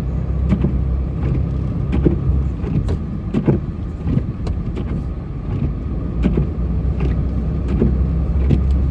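A vehicle engine running with a steady low rumble, with scattered short clicks and knocks over it.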